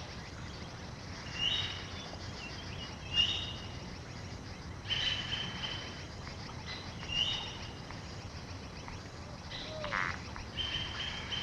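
Short bird calls repeated about every two seconds, over a steady forest hiss.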